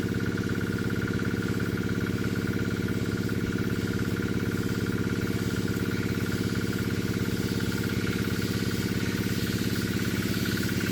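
Small diesel engine driving a Sanchin 30 power sprayer pump, running at a steady speed.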